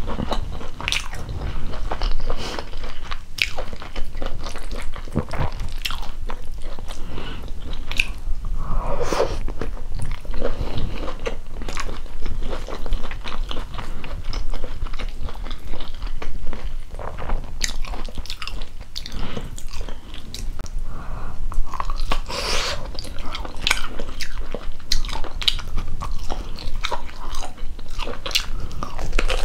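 Close-miked chewing of ugali, cabbage and beef stew eaten by hand, with many small mouth clicks throughout.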